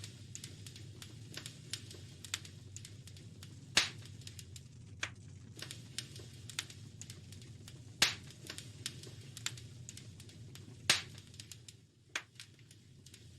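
Wood fire crackling in a fireplace: irregular small snaps over a low, steady rumble, with three loud pops about four seconds apart.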